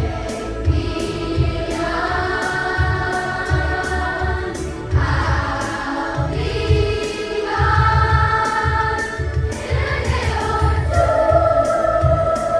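A children's choir singing held notes over a recorded backing track with a steady pulsing bass beat.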